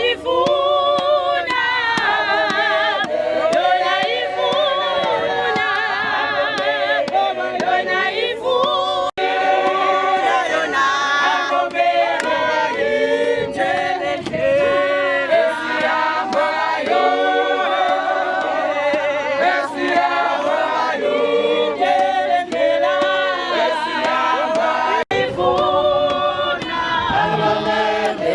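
A choir of voices singing together unaccompanied in harmony, with long held, wavering notes. The singing drops out for an instant twice, about nine seconds in and a few seconds before the end.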